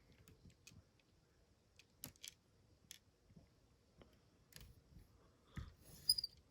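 Faint, scattered clicks and taps of a Lego plastic truck being handled, with a louder cluster of clicks about six seconds in.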